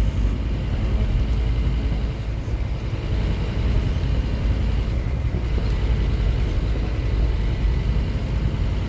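Scania N230UD OmniCity double-decker bus on the move: a steady low diesel engine rumble with road noise, dipping slightly about two seconds in.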